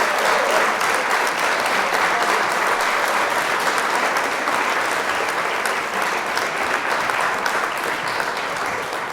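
Crowd applauding, many hands clapping steadily, easing off slightly near the end.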